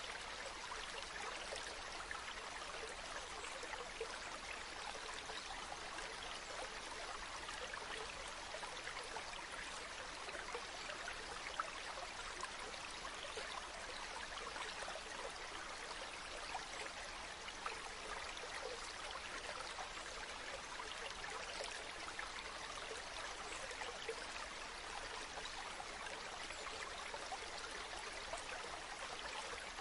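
Steady running water, an even unbroken wash of noise with no tone or rhythm, and a couple of faint brief clicks.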